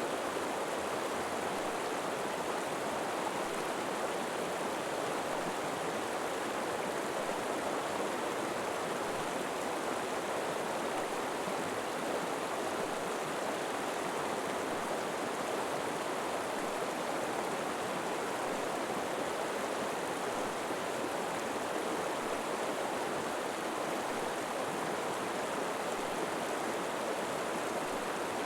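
River water flowing steadily over rocks, an even rushing without breaks.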